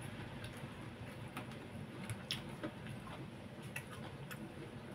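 Eating sounds: chewing roast duck and rice, with scattered small clicks and ticks.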